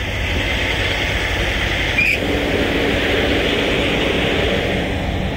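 Idling diesel semi-truck, its engine running steadily under a loud, even whoosh of fan noise; a low steady hum joins about two seconds in.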